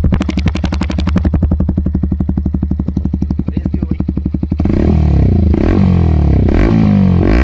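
Bajaj Pulsar NS160's single-cylinder engine through a loud aftermarket SC exhaust, idling with a steady, evenly spaced exhaust beat. About four and a half seconds in, the throttle is blipped, and the revs rise and fall in quick bursts.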